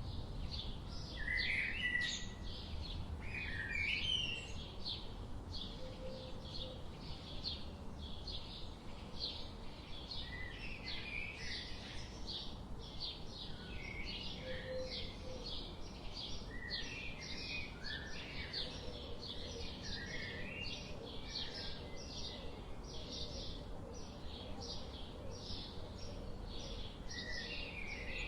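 Forest birdsong: short high chirps repeating about twice a second throughout, with warbled phrases from other birds mixed in, over a steady low rumble.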